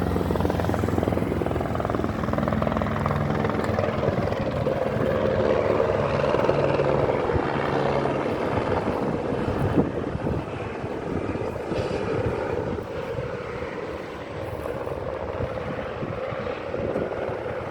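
Firefighting helicopter flying over, its rotor and engine running steadily. It is louder in the first half and drops off a little after about ten seconds as it moves away.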